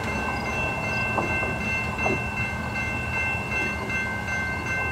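A VIA Rail passenger train's rumble as it moves away along the line. Steady high ringing tones sound over it.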